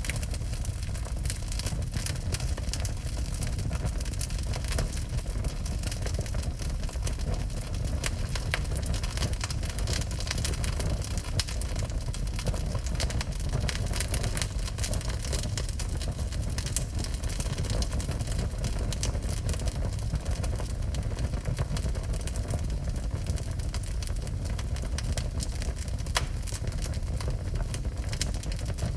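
Wood fire burning in a fireplace: frequent small crackles and pops over a steady low rumble.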